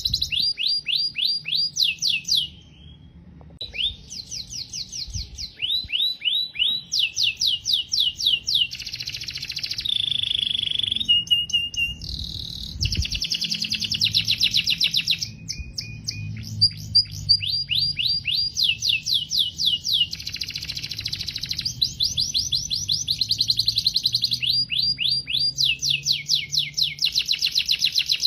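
Domestic canary singing: long song of rapid trills, each a run of fast repeated down-slurred notes, broken by a few held whistled notes and a short pause about three seconds in.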